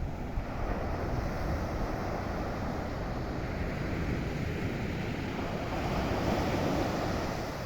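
Sea waves washing onto the shore with wind rumbling on the microphone; a wave swells louder near the end.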